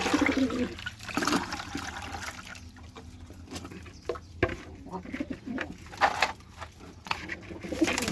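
Pigeons cooing, with scattered clicks and knocks.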